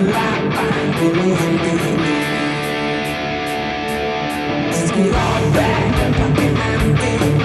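Ibanez GRX20 electric guitar played with a heavy, distorted tone over a rock backing track with drums. A chord rings out from about two to five seconds in, then bass and kick drum come in under the guitar.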